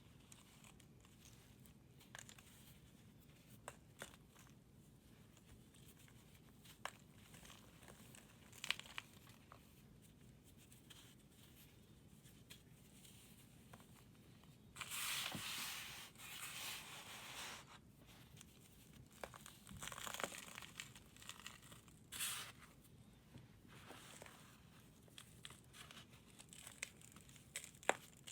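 A dry, crumbly material being crushed and broken: scattered faint crackles, with a longer crunching burst about halfway through and a couple of shorter crunches a few seconds after it.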